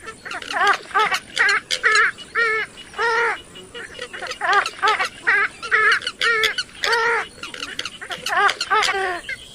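Purple swamphen giving a long series of harsh, nasal calls, two or three short notes a second, each rising and then falling in pitch.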